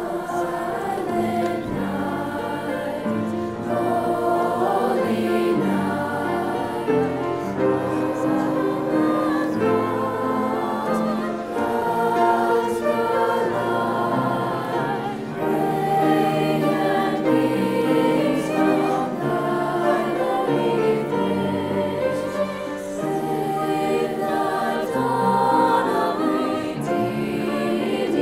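School chorus singing a Christmas song in parts, with piano accompaniment.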